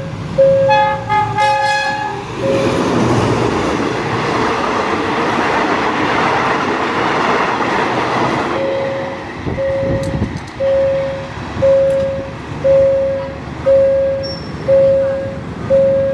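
Level-crossing warning beeper sounding about once a second while an Alsthom diesel locomotive gives a horn blast about a second in. It then passes, its engine and wheel noise covering the beeps for about six seconds before they come through clearly again.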